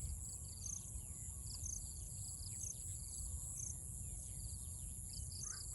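Rural countryside ambience: a steady high-pitched drone of insects, with short high chirps repeating about twice a second and a low rumble underneath.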